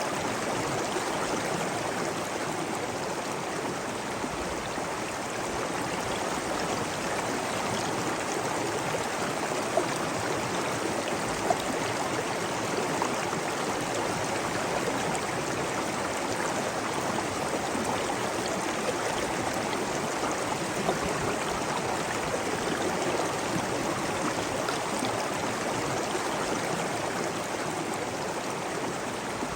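Flowing water rushing steadily, like a stream or cascade, with a couple of small splashes about a third of the way in.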